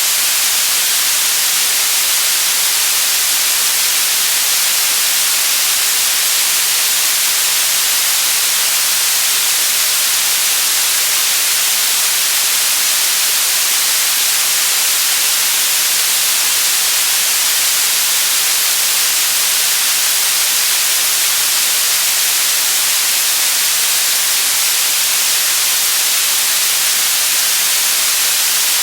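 Steady, loud white noise: an even, unbroken hiss that is strongest in the high pitches.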